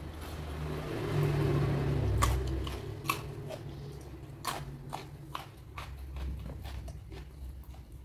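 Close-miked eating of crunchy raw lalapan: sharp crisp bites and crunches come every half second to second from about two seconds in, with chewing between them. Before them, a swelling hiss fills the first two seconds.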